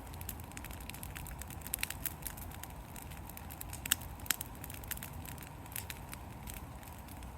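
Burning pile of blackberry vines and yard debris crackling, with irregular sharp pops, two louder ones about four seconds in, over a steady low rumble.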